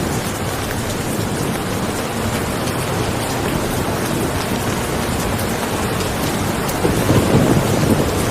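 Steady rain falling, with a low rumble of thunder swelling about seven seconds in.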